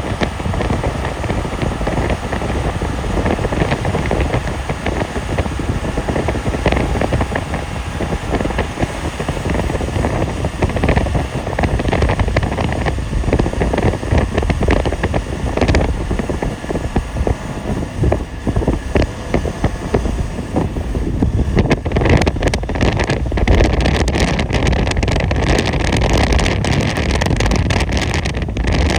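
Steady road noise from a vehicle driving on a snowy road: engine and tyre rumble mixed with wind buffeting the microphone, turning rougher and more crackly about two-thirds of the way in.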